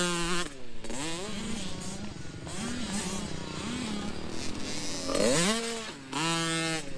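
Motocross dirt bike engines revving hard and shifting up through the gears, the pitch climbing and dropping back with each shift. A bike accelerates hardest about five seconds in, then holds a high steady note.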